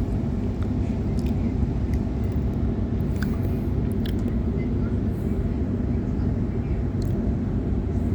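Steady running rumble of a Sydney Trains Waratah (A-set) electric multiple unit in motion, heard from inside the carriage, with a few faint clicks.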